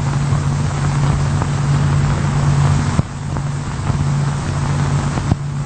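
Steady low mechanical drone on one pitch with a hiss over it, like machinery running, broken by two sharp clicks, about three seconds in and near the end.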